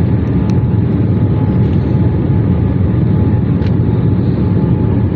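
Airliner cabin noise: a steady low engine and airflow rumble with a faint steady whine above it.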